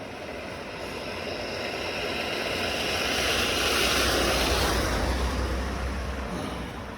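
A motor vehicle passing by: engine rumble and road noise swell to a peak about four seconds in, then fade away.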